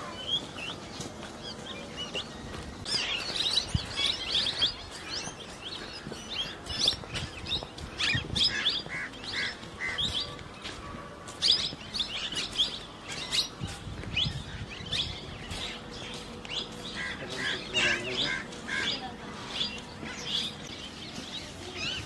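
Birds chirping: many quick, high chirps overlapping one another, some in short repeated series.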